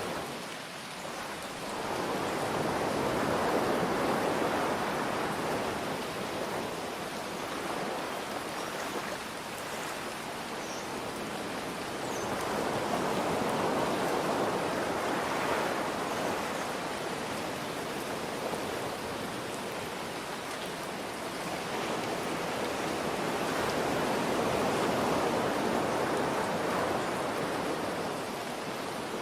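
Steady rain hiss mixed with ocean waves washing in, rising and falling three times, about ten seconds apart.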